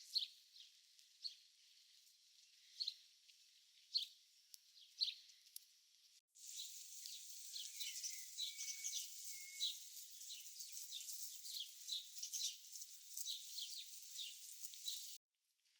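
Songbirds chirping and singing in short, high calls; the sound breaks off briefly about six seconds in, resumes with denser chirping, and cuts off suddenly near the end.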